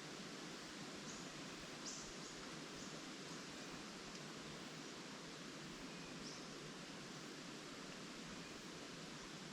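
Steady rustle of wind through tree leaves, heard as a faint even hiss, with a few brief, high bird chirps about one to three seconds in and once more near six seconds.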